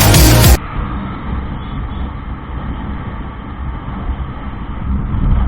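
Music cuts off abruptly about half a second in and gives way to the steady low rumble of a motorcycle on the move, with engine and wind noise on the microphone.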